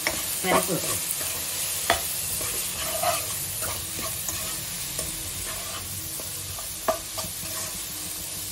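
Soya chunks frying with onion and tomato in a non-stick wok, sizzling steadily while a steel spoon stirs them, with scattered sharp clicks of the spoon against the pan.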